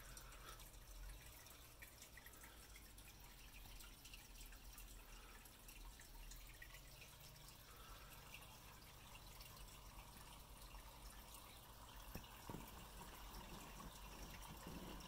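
Very faint rain dripping, with a few light clicks about twelve seconds in.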